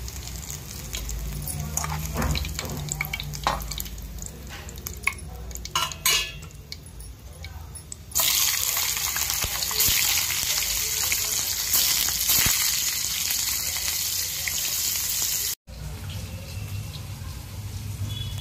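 Cauliflower florets frying in hot oil in an aluminium kadhai, with a slotted spoon clinking and scraping against the pan. About eight seconds in, the oil jumps to a loud, steady sizzle as fresh florets go in, and the sizzle cuts off suddenly a few seconds before the end.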